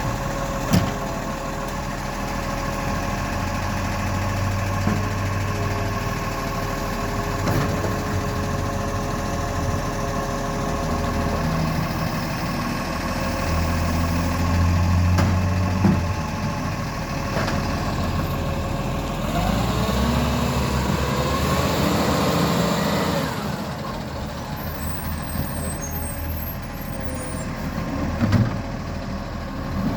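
Garbage truck engine running steadily, with a few sharp knocks. About twenty seconds in, the engine note changes and a whine rises and falls for a few seconds.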